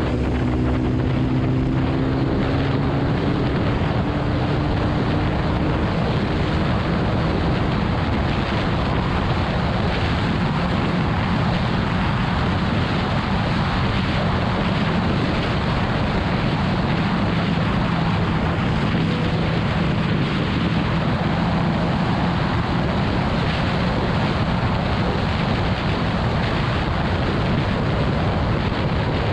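Heavy wind buffeting on the microphone from a motorcycle at highway speed, with the BMW S1000RR's inline-four engine running steadily underneath. The engine note is clearest in the first few seconds.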